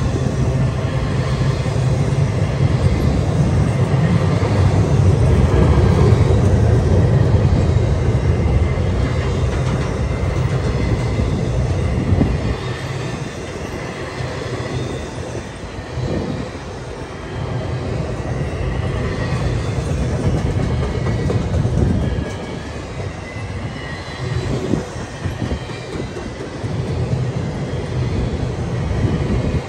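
Freight train of empty intermodal well cars rolling past: a steady rumble of steel wheels on rail. About twelve seconds in the rumble drops, leaving a lighter rolling noise with occasional knocks.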